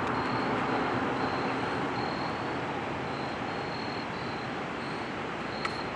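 Traffic noise from vehicles on the highway: a steady rushing hiss of tyres and engines that slowly fades.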